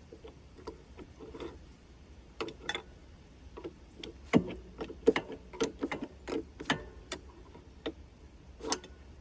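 Irregular metal clicks and knocks of hand work on a sawmill's saw guide: parts and hand tools being handled and fitted. The clicks come in an uneven string, thickest in the middle, with one sharper knock about four seconds in.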